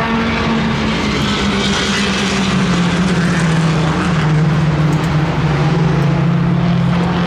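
An engine drones steadily. Its pitch sags slowly over the first few seconds, then holds level.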